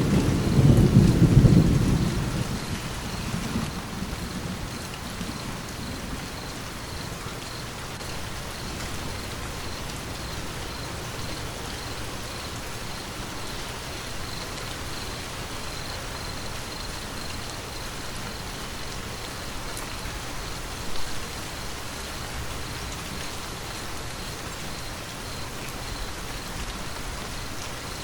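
Steady rain falling, with the tail of a thunder rumble at the start that dies away over the first few seconds.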